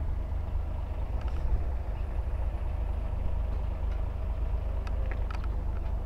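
Ducati Panigale V4's 1103 cc V4 engine idling with a steady low rumble.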